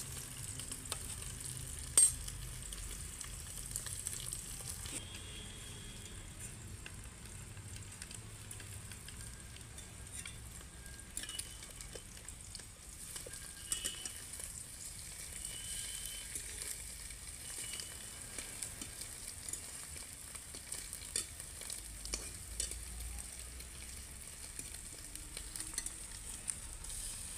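Oil sizzling steadily in a kadai as pieces fry, while a metal spatula stirs and scrapes them, with small clicks of the spatula against the pan. A single sharp click about two seconds in is the loudest sound.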